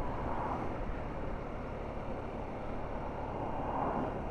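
Steady road and engine noise from a moving vehicle, an even rumble and hiss without any sharp events.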